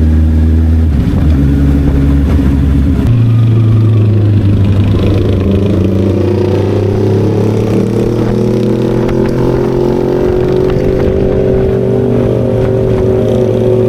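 Inline-four motorcycle engine with an aftermarket exhaust, running under way. Its pitch changes in steps about one and three seconds in, then rises slowly and steadily as the bike accelerates.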